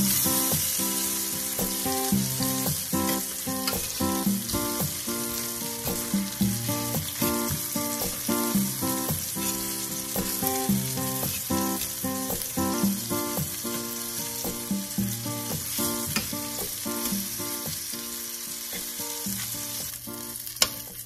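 Pheasant pieces sizzling as they brown in hot oil in a stainless steel skillet, a steady frying hiss. Metal tongs click against the pan now and then as pieces are turned and lifted, with one sharp clink near the end.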